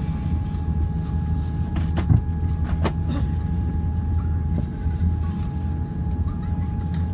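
Airbus A350-900 cabin noise on the ground: a steady low rumble with a steady whine over it, and a couple of sharp knocks about two and three seconds in.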